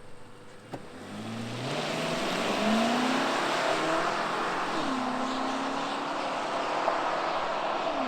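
BMW X5 M Competition's 4.4-litre twin-turbo V8 through a valved cat-back exhaust with the particulate filter deleted, accelerating and growing louder as its pitch rises. About five seconds in the note drops sharply, then holds a steady, slightly falling tone.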